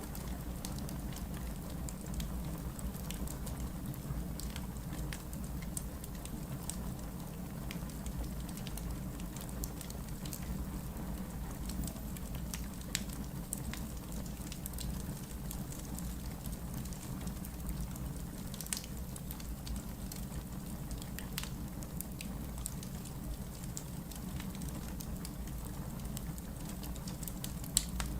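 Wood logs burning in a fireplace: a steady low rumble of flame with scattered sharp crackles and pops, one louder pop near the end.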